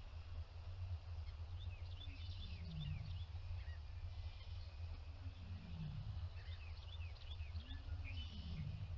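Small birds chirping and twittering in short high notes, with a low call coming about every two to three seconds over a steady low hum.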